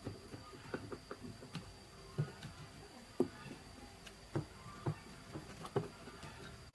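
Scattered light clicks and knocks at an uneven pace, roughly one or two a second, over a faint steady high-pitched whine.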